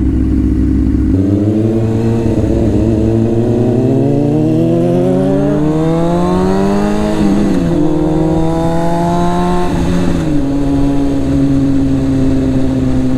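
Honda CBR600F4i inline-four motorcycle engine idling, then pulling away about a second in, its note climbing as it accelerates. It drops with a gear change, climbs again, and eases to a steady cruising note near the end.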